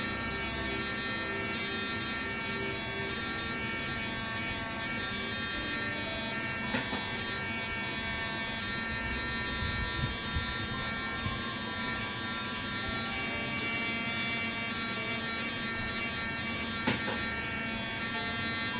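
Woodpecker 812MT dental endomotor handpiece running in sonic vibration mode: a steady electric buzz with many overtones. A short high beep sounds twice, about seven seconds in and near the end.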